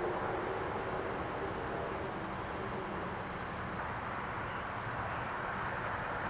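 Steady outdoor vehicle and traffic noise, with a faint engine hum in the first few seconds.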